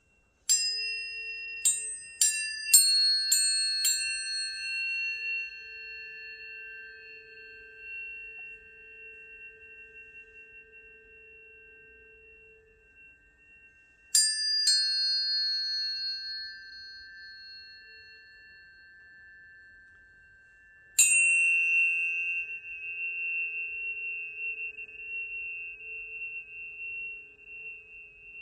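Tuning forks struck, with about six quick strikes in the first four seconds, two more about 14 seconds in and one about 21 seconds in. Each strike leaves several pure tones at different pitches ringing together and slowly fading.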